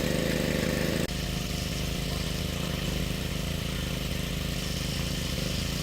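A small engine running steadily at idle, its note changing slightly about a second in.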